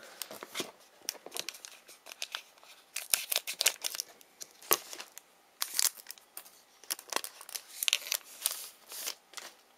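A trading card pack wrapper being torn open and crinkled by hand, in irregular bursts of sharp crackling.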